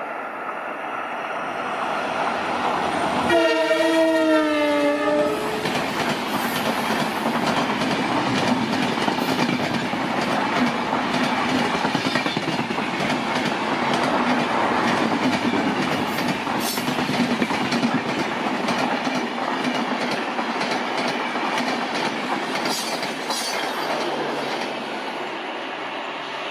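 An Indian Railways locomotive sounds its horn once, a slightly wavering multi-note blast of about two seconds, a few seconds in. The train then runs past with a steady rumble and the clickety-clack of wheels over the rail joints.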